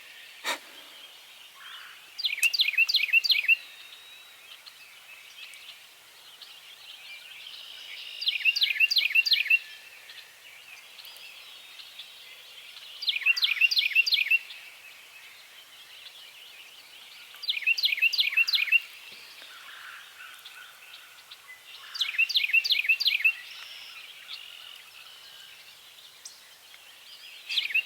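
A songbird singing a short, quick phrase of five or six rising notes, repeated six times at an even pace about every four to five seconds, clear over a quiet outdoor background.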